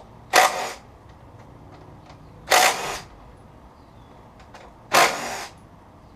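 Power tool running in three short bursts, about two and a half seconds apart, backing out the bike's 12 mm bolts.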